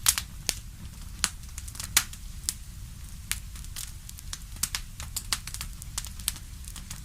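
Wood fire crackling in a fireplace: irregular sharp pops and snaps, several a second, the loudest right at the start and about two seconds in, over a steady low rumble.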